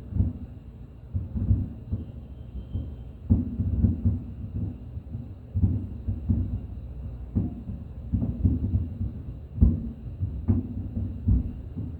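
Fireworks bursting in a rapid, irregular series of deep booms, roughly one or two a second, with a few sharper cracks near the end.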